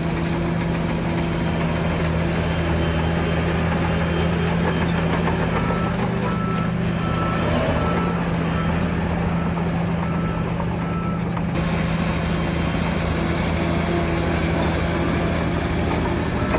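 Heavy diesel earthmoving machinery running steadily. A reversing alarm beeps at an even pace from about five and a half seconds in until about eleven and a half seconds.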